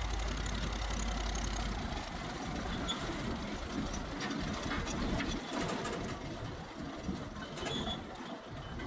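Heavy machinery running: a steady low engine rumble for the first couple of seconds, then a rough clattering with scattered knocks.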